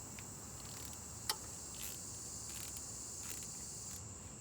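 Steady high-pitched chirring of insects, with a single sharp click about a second in.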